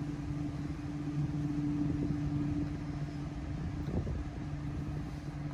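Steady low hum and rumble of a 2020 Dodge Charger Scat Pack's 392 V8 idling, heard from inside the cabin.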